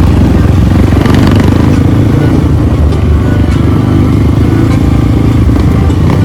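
Trail motorcycle engine running steadily while riding, with a few sharp knocks, one about a second in.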